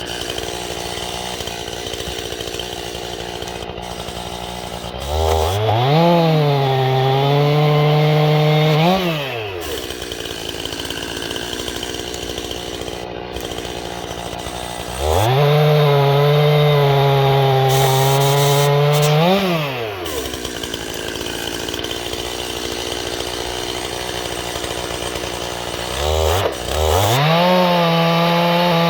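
Two-stroke chainsaw idling, throttled up three times to cut through dead ash wood, each cut about four seconds long. The engine note sags under load in the wood and climbs as the chain breaks through, before dropping back to idle. The third cut starts near the end, after a short blip of the throttle.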